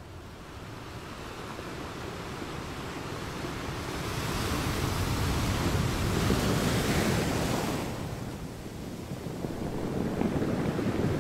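Waves washing in and out: a swell of surf builds to a hissing peak about halfway through, falls away around eight seconds in, then a second swell builds near the end.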